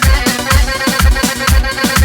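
Instrumental Arabic wedding dance music: an electronic keyboard holding steady tones over a heavy drum beat of about two low thumps a second, with short downward-sliding drum sounds between them.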